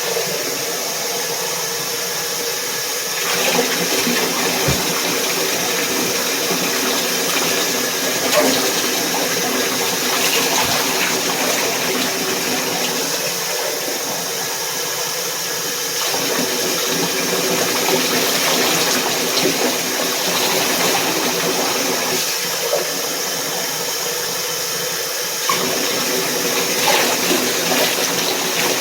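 Running water steadily rinsing a dog during its bath, shifting a little in loudness every several seconds as the spray moves.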